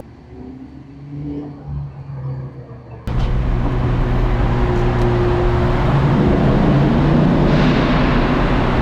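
A car's engine and exhaust running loudly, with a steady deep drone, cutting in suddenly about three seconds in; before that there is only a faint low hum.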